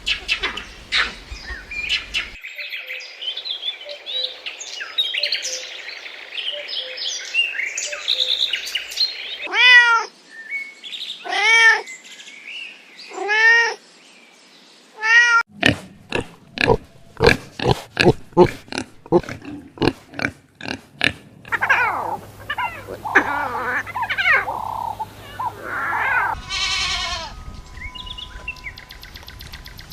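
A string of different animal calls, one clip after another: chirping, then four drawn-out calls about two seconds apart, then a fast run of short sharp sounds, then more calls.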